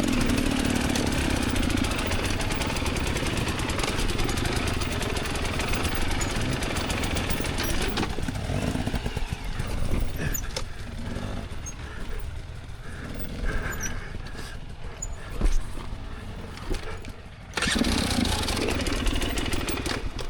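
Enduro dirt bike engine running hard, then falling to an uneven, lower throttle with a few sharp knocks and clatters about halfway through. It comes back suddenly to full throttle near the end.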